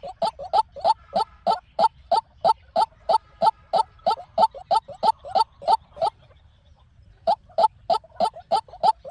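White-breasted waterhen calling, a monotonous series of short, harsh notes at about three a second. The series breaks for about a second a little past the middle, then starts again.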